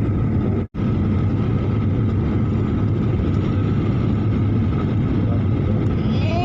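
Motorboat engine running steadily under loud water and wind noise, with a momentary silent gap under a second in.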